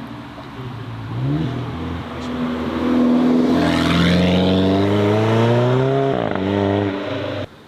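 A car engine accelerating hard, its note rising steadily, then dropping sharply at an upshift about six seconds in before climbing again. The sound cuts off abruptly near the end.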